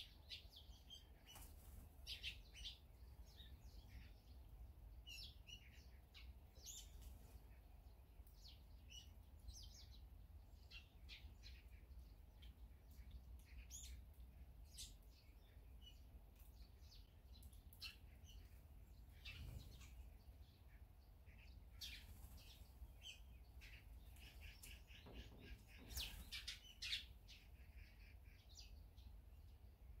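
Small birds chirping: short, scattered calls throughout, with busier flurries now and then and the loudest near the end, over a faint low rumble.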